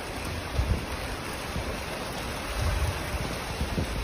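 Steady rushing hiss of rain and water outdoors over a flooded street, with irregular low rumbles of wind buffeting the microphone.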